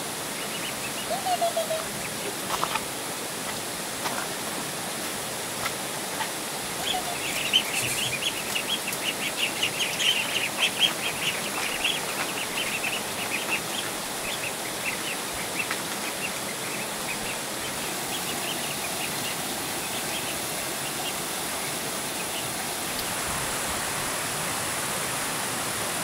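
A dense run of quick, high chirps lasting about six seconds, a few seconds in, over a steady rushing noise like running water.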